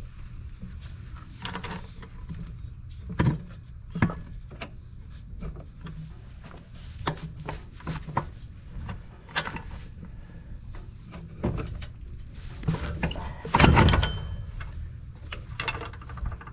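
Irregular knocks and thuds over a steady low rumble, with the loudest, longest thud a few seconds before the end.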